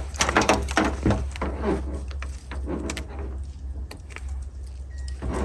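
Handling noise: a cluster of sharp clicks and knocks in the first second, then scattered softer knocks and rustles, over a steady low hum.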